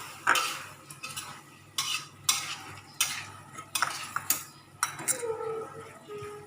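A cooking utensil stirring and scraping food in a pan, striking the pan in a series of sharp clinks and scrapes.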